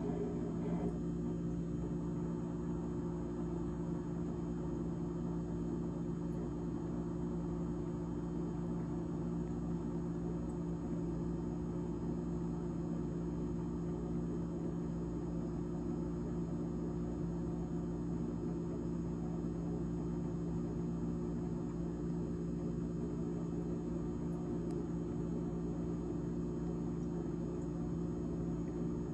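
GE GTH18XCTZRBB refrigerator fan running: a steady hum made of several held tones that does not change.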